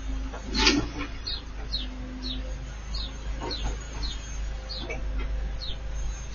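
A garden bird chirping over and over in short, high, falling notes about two a second, with a single knock about a second in.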